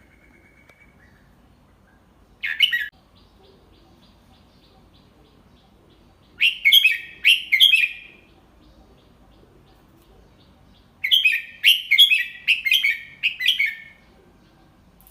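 Red-whiskered bulbul singing in short phrases of bright chirped notes: a single brief note about two and a half seconds in, a short phrase around six seconds, and a longer phrase of several quick notes from about eleven to fourteen seconds.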